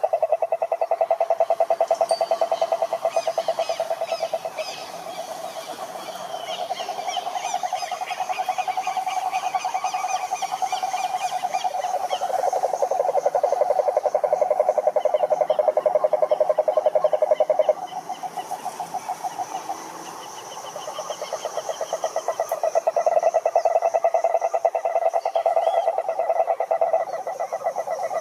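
A chorus of frogs calling at a pond: long, rapid trills from several frogs overlapping one another, with fainter high-pitched trills above them. The chorus briefly thins out a few seconds in and again past the middle.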